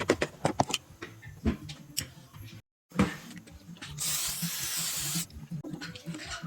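A hiss of spray lasting about a second, after a few light clicks.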